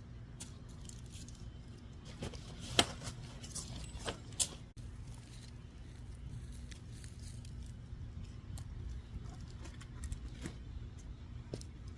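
Gear being shifted and packed into a car: scattered light clicks, clinks and knocks, with two sharper clicks a few seconds in, over a steady low hum.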